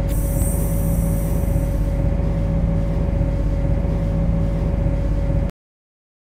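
Steady hum of an MTR C-Train metro car, heard from the driver's cab, with a high hiss over the first two seconds. The audio cuts out abruptly about five and a half seconds in.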